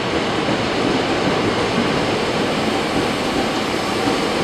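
Train running on the rails: a steady rolling noise of wheels on track with no distinct clicks or pauses.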